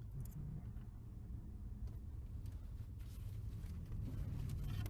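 Faint scattered clicks and light scraping of a locksmith's broken-key extraction tool working in a car ignition lock, over a low steady rumble.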